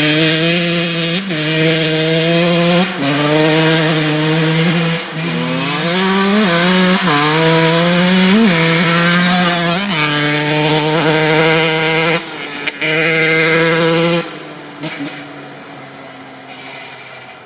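Kawasaki KX80 two-stroke dirt bike engine with a DEP S2 silencer, idling and being blipped up several times on the throttle. After about fourteen seconds it drops back to a quieter, steady idle.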